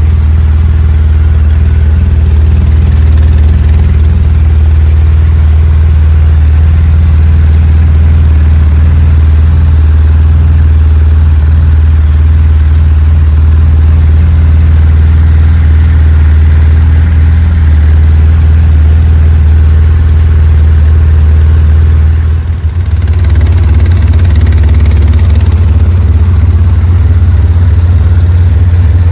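A 700 quad's engine idling steadily just after a cold start on old, stale gas. It runs evenly, with one brief dip about three-quarters of the way through before settling back.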